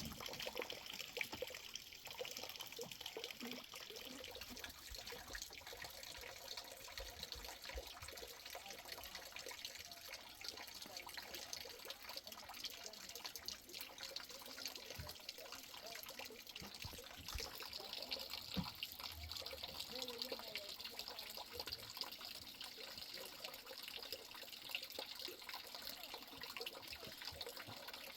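Water running and trickling steadily, with a few soft knocks.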